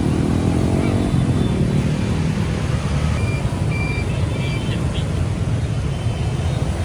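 Street traffic of motor scooters and cars, with one engine passing close in about the first second and a half.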